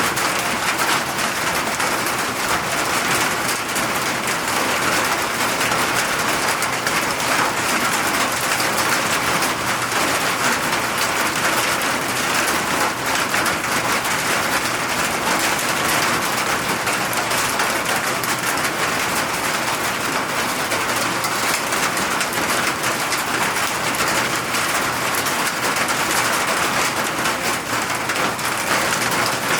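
Steady rain, a dense, even hiss of drops falling on surfaces.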